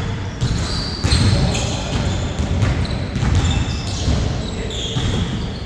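Basketball game play: the ball bouncing in repeated dull thumps while sneakers give short, high squeaks on the court.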